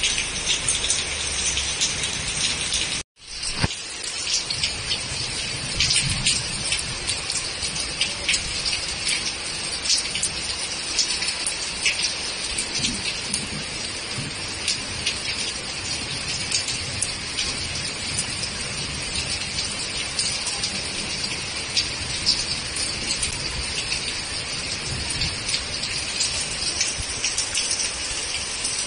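Heavy monsoon rain falling steadily, a constant hiss thick with sharp close drop hits. The sound drops out for a moment about three seconds in.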